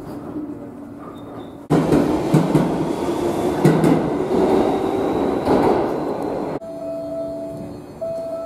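Electric train sounds: a steady electrical hum, then about two seconds in an abrupt switch to a much louder rushing rumble with a faint rising whine, which cuts off suddenly near the end and gives way to a quieter steady hum.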